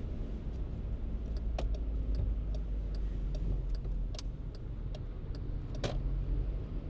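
A car's turn-signal indicator ticking evenly, about two to three clicks a second, over the steady low rumble of the car driving, one click near the end standing out louder.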